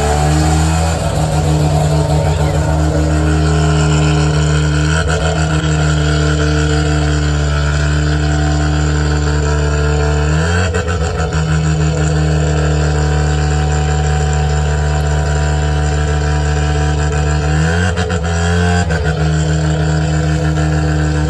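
Car engine with a pop-and-crackle ('AK-47') exhaust tune, running steadily, then revved twice, about halfway and near the end, each rev setting off a quick string of sharp exhaust pops like gunfire.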